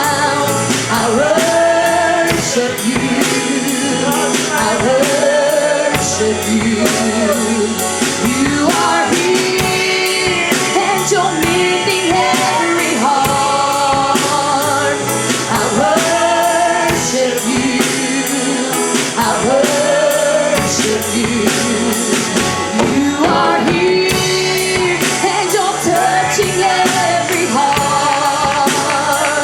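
Live gospel worship music: singers over a band with drums and a steady beat.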